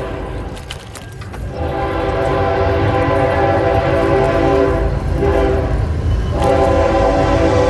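Train horn sounding in long, steady blasts of several tones together over a low rumble. It eases off about five seconds in, and a second blast starts about a second later.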